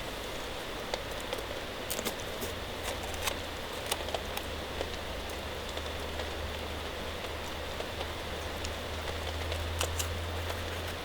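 Steady rain falling, with scattered heavier drops tapping irregularly on a close surface and a low steady rumble underneath.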